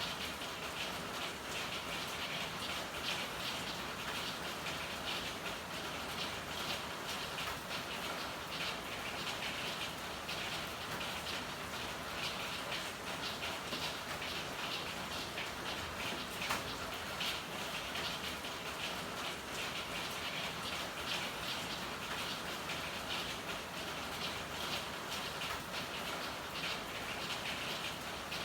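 Steady rain falling, a dense patter of drops with a few sharper drips, one standing out about sixteen seconds in.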